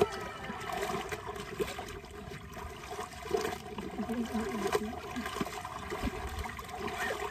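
River water sloshing and trickling as laundry is dunked and rinsed by hand in the shallows, with a few small splashes.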